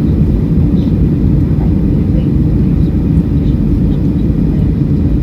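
Steady low rumble of jet engines and rushing air heard inside an airliner cabin.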